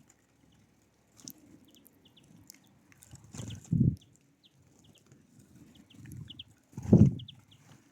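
Small birds at a feeder giving short, high chirps, scattered all through. Two louder low thuds or flutters break in, about three and a half seconds in and again about seven seconds in.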